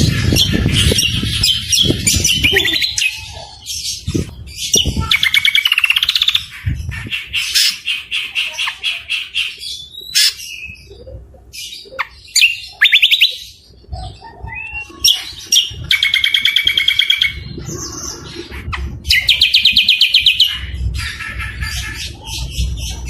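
Caged songbird song, cucak kombo (greater green leafbird) mixed with other birds' rough songs: a loud string of varied phrases, with rapid chattering trills and high whistled notes broken by short pauses.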